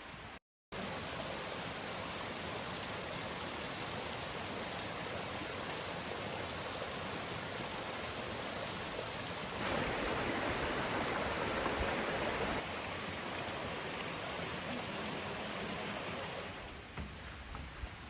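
Steady rush of a waterfall, Shasui Falls, its falling water a constant hiss with no other sound, louder for a few seconds past the middle.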